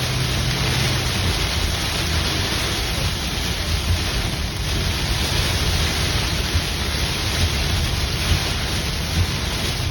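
Heavy rain pelting a moving car, a steady dense hiss with a low road rumble underneath.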